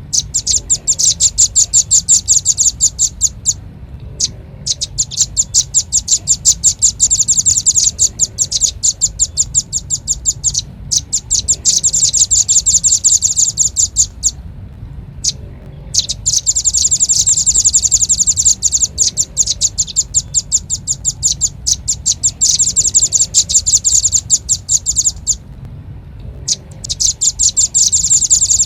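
Velvet-fronted nuthatch calls: fast runs of sharp, high chip notes, many per second, each run lasting several seconds, broken by short pauses, over a low steady hum.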